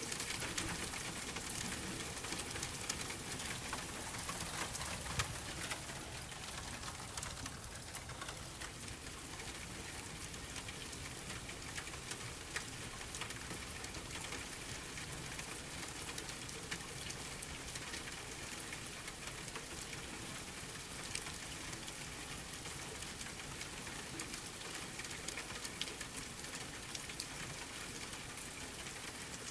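Steady rain pattering as an even hiss dotted with small drip ticks, over a softly crackling fireplace.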